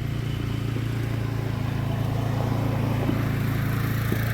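An engine running steadily, a low, even drone with a fast regular pulse.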